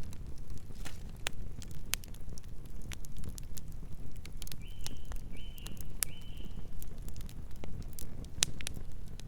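Campfire burning, the wood crackling and popping in sharp, irregular snaps over a low steady rumble. About halfway, three short high chirps come in quick succession.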